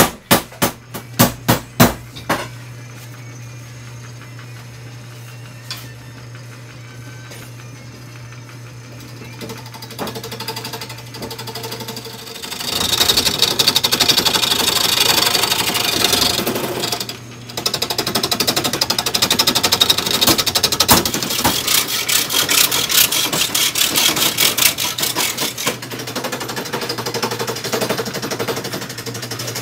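A quick run of about eight sharp knocks at the start, then a wood lathe's motor humming steadily. A little before halfway, a turning tool bites into the spinning rough green-wood blank for the shovel handle: a loud, fast clattering rasp that breaks off briefly, then carries on.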